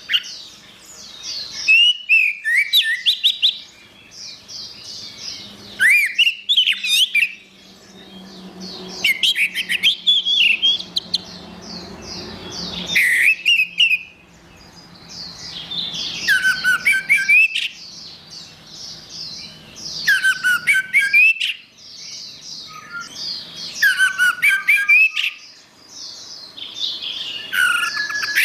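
Orange-headed thrush singing: phrases of quick, varied whistled notes sweeping up and down, repeated every three to four seconds with short pauses between them.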